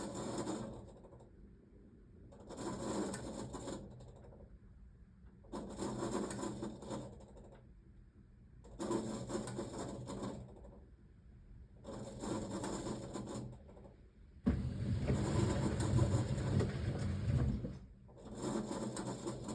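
A 1978 Siemens WA4600 washing machine tumbling a load of jeans in its wash cycle. The drum turns in short bouts about every three seconds with brief pauses between them, and one longer, louder turn near the end.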